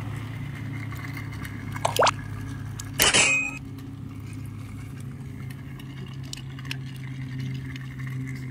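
An AA battery pushed into a toy train's plastic battery holder, with one sharp click about three seconds in as it snaps in against the spring contact. A short rising squeak comes just before it, over a steady low hum.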